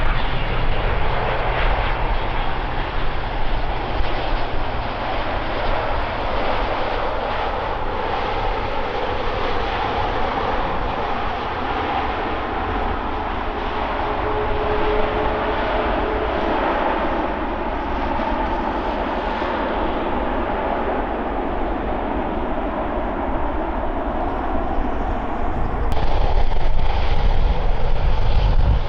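Airbus A350 airliner's Rolls-Royce Trent XWB turbofan engines running: a steady jet roar, with a faint whine briefly near the middle. The sound changes abruptly about 26 seconds in and gets louder.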